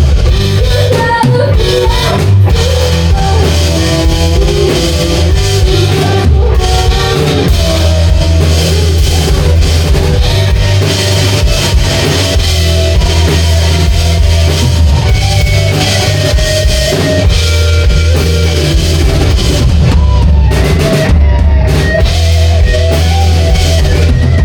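Rock band playing loudly: drum kit and electric guitar over heavy bass, with some singing.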